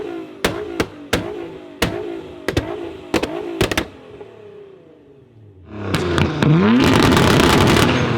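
Car exhaust: a string of sharp pops and cracks over short engine revs, then a loud hard rev or acceleration starting about six seconds in, its pitch climbing.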